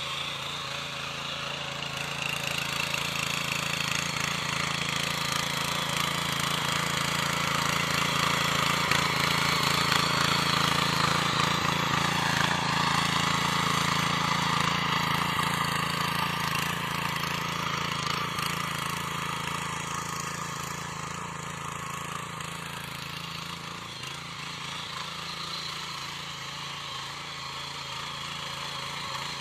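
Engine of a Sraja R107 power weeder (mini tiller) running steadily at working speed, growing louder towards the middle and then fading somewhat.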